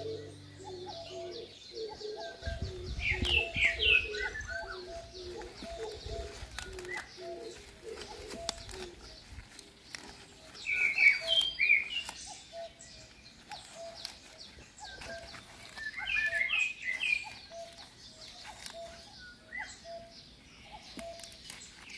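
Birds calling: a steady run of short, low, repeated calls about twice a second, with louder bursts of high chirping three times.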